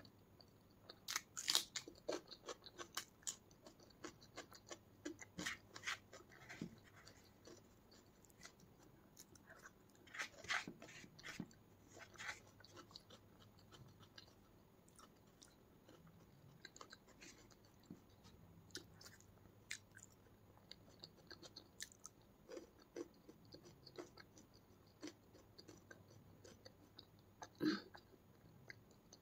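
Close-miked chewing of rice and curry, with soft wet mouth clicks and a few crunchier bites, the loudest about a second in, around ten to twelve seconds in and once near the end.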